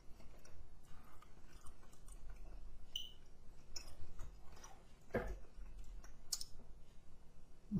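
A person chewing chicken wings close to the microphone: irregular soft wet clicks and mouth smacks, with a couple of louder smacks about five and six seconds in.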